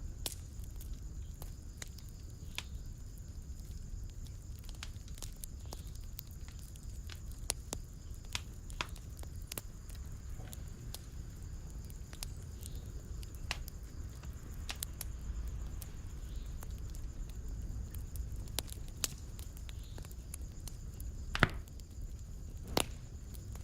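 Wood fire in a fireplace crackling: irregular sharp pops and snaps over a steady low rumble of flames, with one louder pop near the end.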